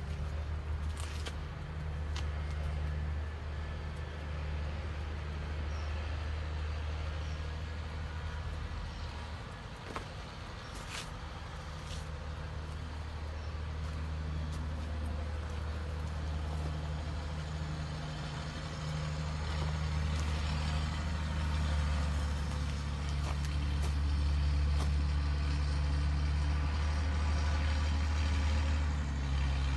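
Valtra N154 Active tractor's diesel engine running steadily, getting louder about two-thirds of the way through, with a few sharp clicks over it.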